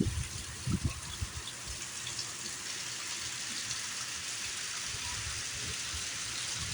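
Heavy rain falling steadily: an even hiss of downpour. A few short low thumps sound in the first second and a half.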